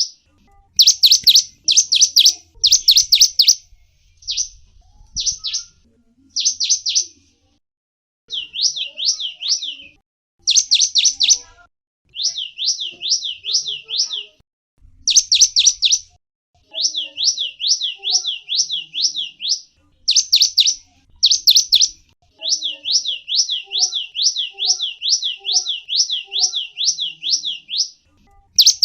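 Gelatik wingko songbird singing: fast series of high, sweeping whistled notes, several per second, in bursts of one to three seconds with brief pauses between them.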